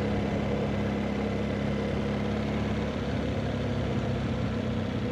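BMW R1200GS boxer-twin engine running at a steady pitch while riding, over a steady rush of wind and road noise.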